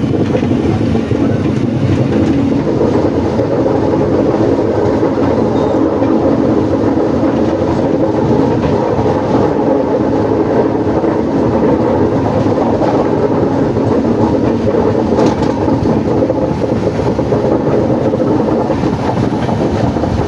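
LHB passenger coach running at speed, heard at its open door: a steady rumble and rattle of wheels on the rails.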